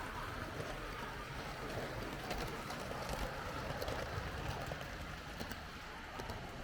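H0 scale model train running along the layout track, a steady rolling rumble with scattered light clicks from the wheels over rail joints and points.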